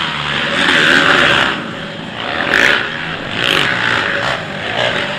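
Racing quad (ATV) engines revving as the machines run the track, the pitch rising and falling with the throttle and the sound swelling as riders pass.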